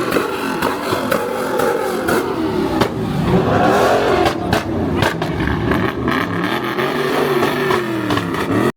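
Car engine revving hard during a burnout, its pitch repeatedly rising and falling, over the hiss of spinning tyres.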